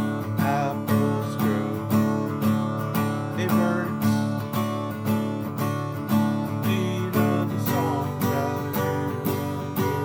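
Acoustic guitar strummed in a steady, even rhythm, with no singing.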